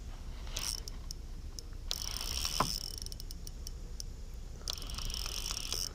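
A fishing reel being cranked in fast stretches, with a dense fine ticking, while a hooked fish is brought up; a single sharp knock about two and a half seconds in.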